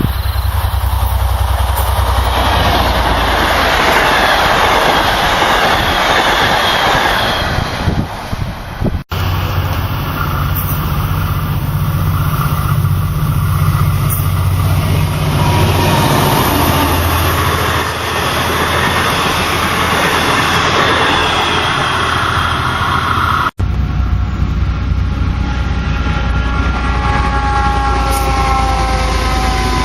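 V/Line passenger trains passing at speed: a loud rush of wheels on rail with diesel engine hum. The sound breaks off abruptly twice, about nine seconds in and again about 23 seconds in. In the last few seconds there are whining tones that slide in pitch.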